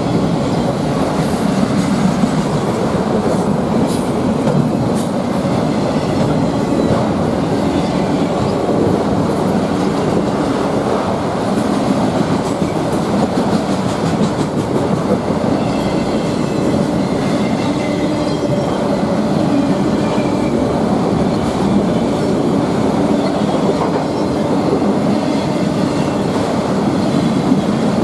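Freight cars of a Norfolk Southern train rolling past steadily, a continuous rumble of wheels on rail with clickety-clack. Thin wheel squeal comes and goes in the second half.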